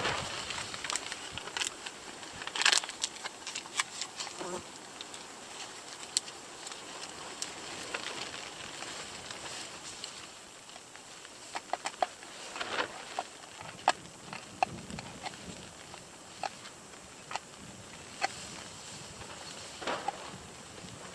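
Steady hiss of rain with irregular drops and small sharp taps landing close by.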